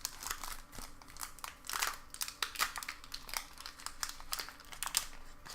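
Foil wrapper of a Pokémon booster pack crinkling and crackling in irregular bursts as it is handled and torn open.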